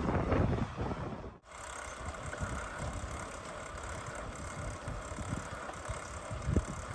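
Gravel bike riding at speed: wind buffeting the microphone over tyre noise on a gravel road. The sound cuts off sharply about a second and a half in, then carries on as steadier, quieter riding noise.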